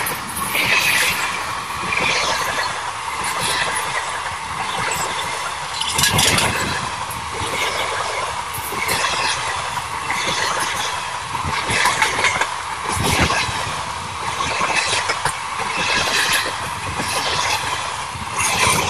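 Indian Railways local passenger train coaches passing close by at speed: a continuous steady running noise, with repeated sharp clacks as the wheels cross rail joints.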